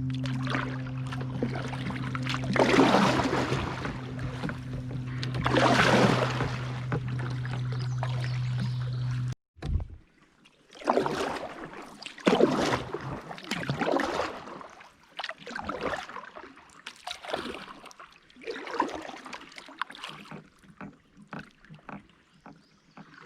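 Kayak paddle strokes swishing and splashing in the river water, repeated about once a second in the second half. In the first part a steady low hum runs under two louder swishes, then cuts off abruptly about nine seconds in.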